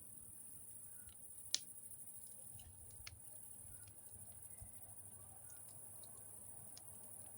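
Faint crackling of a campfire, scattered small ticks with one sharp pop about one and a half seconds in and a smaller one about three seconds in.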